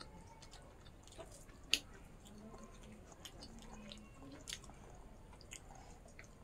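Quiet chewing of pork with the mouth, with scattered small wet clicks and two sharper ones, about a second and a half and four and a half seconds in.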